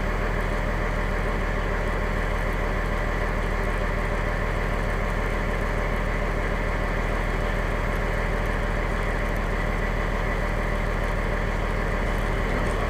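Fire engine's engine running steadily with an even drone, heard from inside the cab.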